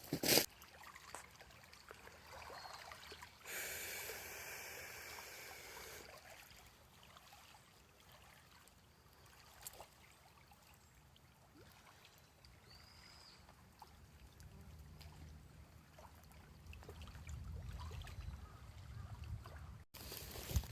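Faint water trickling, with scattered small clicks and a louder hiss lasting a couple of seconds a few seconds in.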